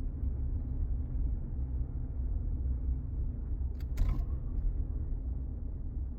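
Low, steady rumble of a car being driven slowly, heard from inside the cabin, with a brief light click about four seconds in.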